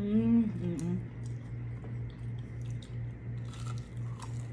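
Biting and chewing into crispy, tempura-style battered fried shrimp close to the microphone: a run of sharp, irregular crunches after the first second, the crisp batter crackling with each bite.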